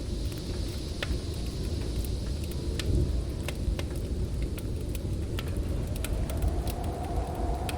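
Heavy snowstorm wind rumbling and gusting, with a whistling howl rising toward the end, over a crackling wood fire that gives scattered sharp pops.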